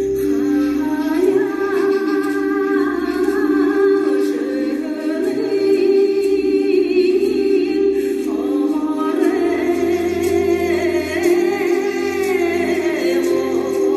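Dance music in Buryat folk style: voices singing over a steady held drone. A higher voice comes in about halfway through.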